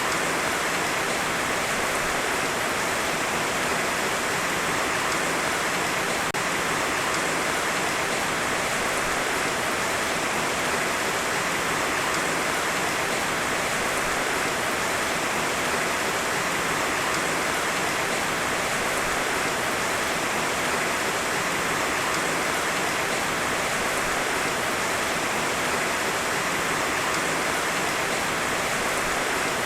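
Heavy rain falling steadily, a dense even hiss of raindrops with no thunder.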